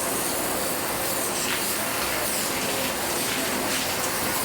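Cicadas chirping, a steady high-pitched hiss.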